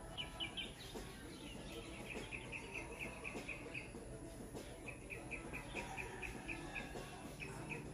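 A small bird chirping faintly in quick runs of short, high notes, about six a second, broken by pauses of a second or so.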